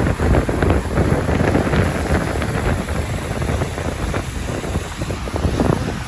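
Wind buffeting the microphone while riding in the rain: a loud, steady rushing noise strongest in the lows, broken by rapid, irregular crackles.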